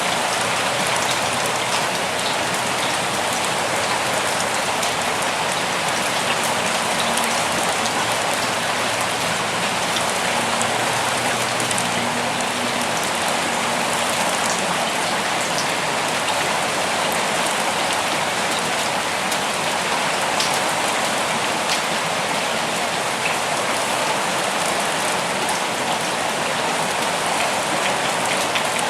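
Steady rain falling, an even hiss with scattered sharp drop ticks on near surfaces.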